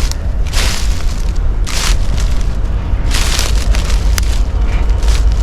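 Deep, steady rumble of a long freight train passing on the line, with short rustling or brushing noises every second or so.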